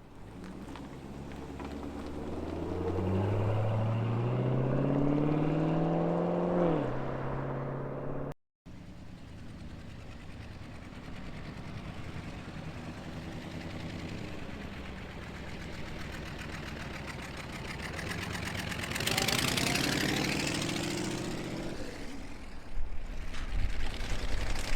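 Muscle car exhausts as cars drive out. First one car accelerates with a steadily rising pitch, then backs off about seven seconds in. After a break, engines run steadily, another car revs up loudly around two-thirds of the way through, and an uneven low rumble follows near the end.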